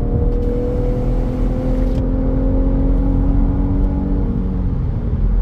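Infiniti Q50's 3.7-litre V6 running through a Remark axle-back exhaust, its drone rising slowly in pitch for about four seconds as the car gathers speed, then easing back.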